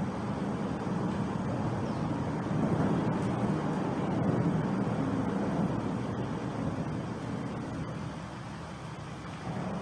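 Road traffic rumbling past, a steady wash of vehicle noise that swells a few seconds in and eases off near the end.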